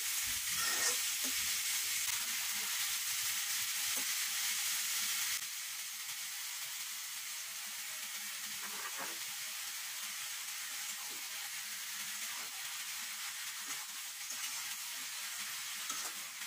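Raw green mango pieces sizzling steadily in a hot pan, with a spatula scraping through them now and then as they are stirred.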